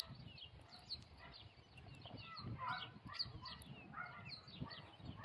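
Faint bird calls: many short chirps and calls scattered throughout.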